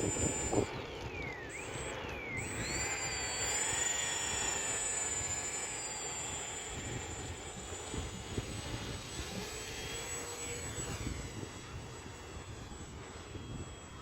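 Homemade RC airplane's electric motor and propeller whining. The pitch dips and climbs twice in the first few seconds as the throttle changes, then holds steadier and slowly fades, with rough wind noise underneath.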